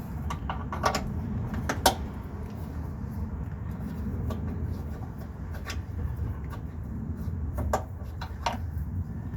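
Scattered sharp metallic clinks and knocks of hand tools and parts being handled while fitting an engine mount, the loudest about two seconds in and again near the end, over a steady low rumble.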